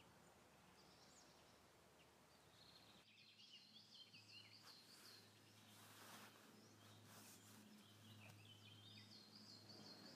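Very quiet outdoor ambience with small birds chirping, series of short high chirps repeating through most of the stretch from about three seconds in, over a faint low hum.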